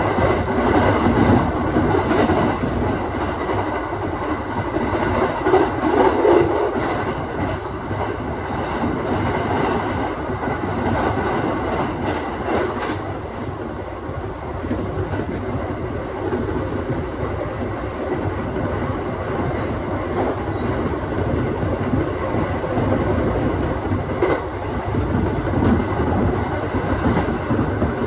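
Aoimori Railway 701-series electric train running at speed, heard from inside the car: a steady rumble of wheels on rail with a few scattered clicks from rail joints.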